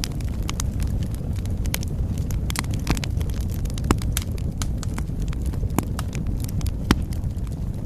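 Wood fire crackling in a fireplace: a steady low rumble with frequent sharp pops and snaps. Two louder pops come about four and seven seconds in.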